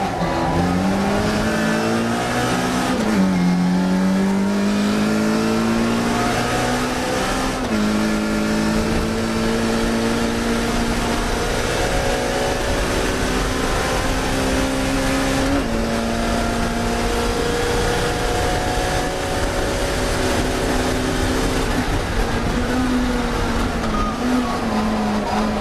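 Classic Mini race car's four-cylinder engine running hard. Its pitch climbs, drops sharply at a gear change about three seconds in, then holds high and nearly steady with small rises and dips.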